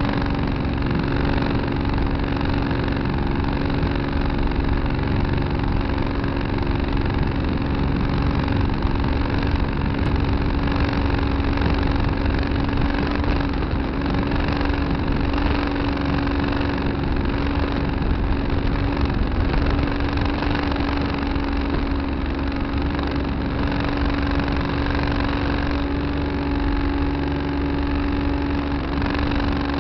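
Tractor engine running at a steady speed, heard from the cab, with an unchanging drone.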